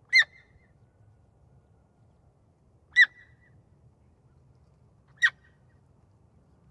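An animal's short, high-pitched call, given three times about two and a half seconds apart, over a faint low background rumble.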